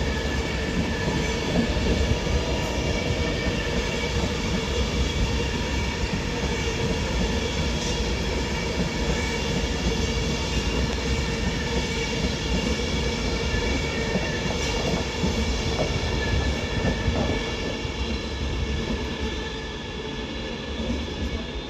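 Class 390 Pendolino electric train pulling out of the station, a steady electric whine made of several held tones over rumbling wheel noise, easing off slightly near the end.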